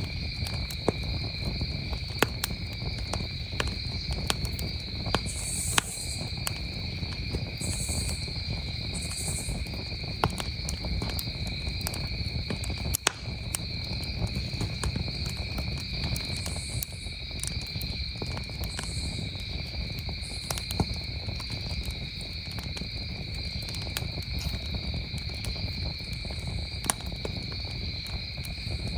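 Wood campfire crackling, with sharp pops scattered irregularly, over a steady, unbroken chorus of crickets.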